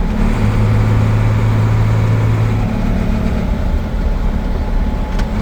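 Truck engine running steadily under way, with road noise, heard from inside the cab. A low drone from the engine swells for about two seconds near the start.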